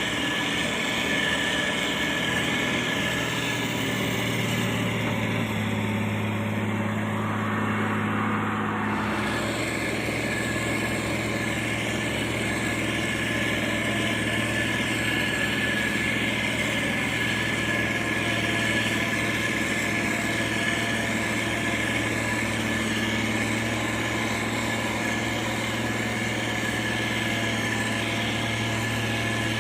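Diesel engine of heavy road-construction machinery (motor grader or road roller) running steadily, a low hum with a steady high whine over it; the low note shifts about nine seconds in.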